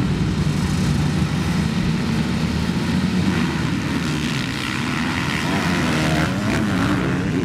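Small dirt bike engine running steadily, its pitch wavering up and down near the end.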